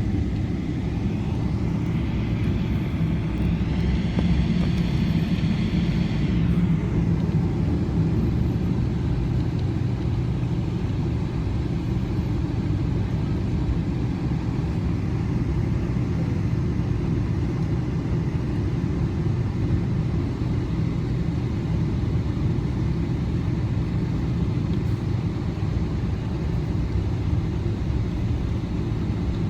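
Airliner cabin noise: a steady low rumble of the engines and airframe, with a higher whine that swells over the first few seconds and fades away about seven seconds in.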